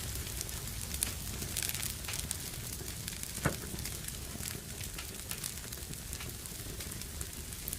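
Fire in a fireplace crackling, with a steady hiss and scattered small pops, and one sharper pop about three and a half seconds in.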